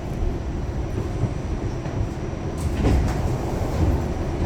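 Pullman Standard R46 subway car running along the track, heard from inside: a steady low rumble of wheels on rail, with a few short knocks about three seconds in and again near the end.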